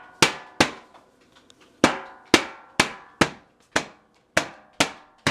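A child drumming: about ten sharp strikes at an uneven pace, each leaving a short ringing tone.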